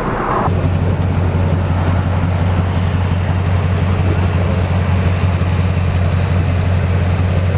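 Diesel truck engine idling, a steady low hum that settles in about half a second in and holds even.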